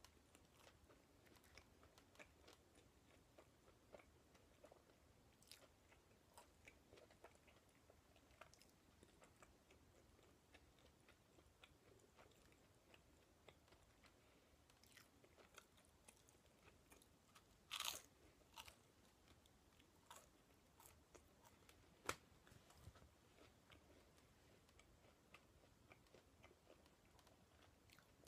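Faint close-miked chewing: soft mouth clicks and crunches while eating, with one louder crunch about two-thirds of the way through and a sharp click a few seconds after it.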